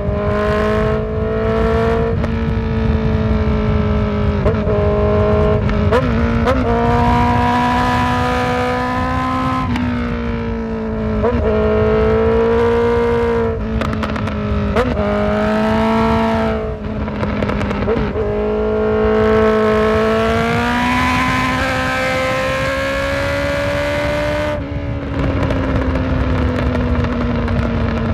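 Honda CB650F inline-four engine pulling under way on a ride, its note climbing steadily and then breaking and stepping down several times as the throttle is rolled off and the gears change. Noise from the ride runs underneath the engine.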